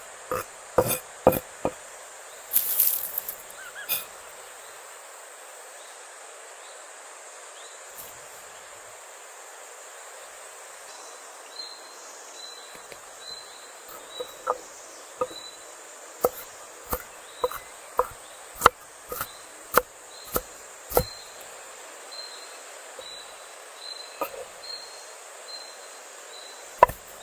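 Sharp knocks over a steady outdoor hiss: a cluster in the first few seconds, then a run of about two knocks a second in the middle. Under them, from about eleven seconds in, an insect chirps faintly about once a second.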